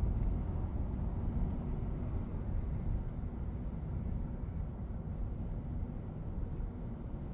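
Steady low rumble of a car driving, engine and road noise as picked up by a dashcam.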